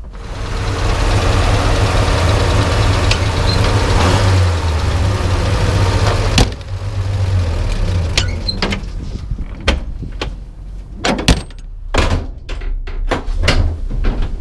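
The 1935 International Harvester C-35 armored truck's six-cylinder engine runs with a loud, steady rumble. About six seconds in it is cut by a sharp bang, like a heavy door shutting, and a series of knocks and clunks follow.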